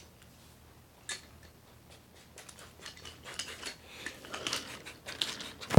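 Light clicks and clatter of small hard objects being handled. There is a single click about a second in, then the clattering grows busier through the second half.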